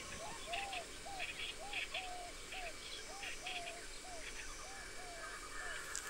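Forest ambience with a bird repeating a short rising-and-falling note about three times a second, stopping about five seconds in, with faint higher chirps scattered behind it.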